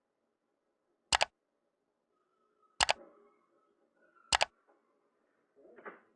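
Three sharp double clicks, about a second and a half apart, over faint background noise.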